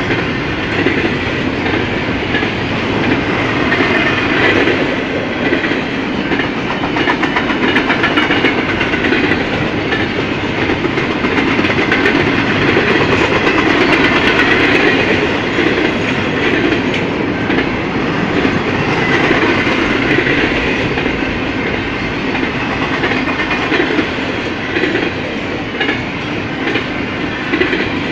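Double-stack intermodal freight train's loaded well cars rolling past: a steady noise of steel wheels on rail, with repeated clicking as the wheels cross rail joints.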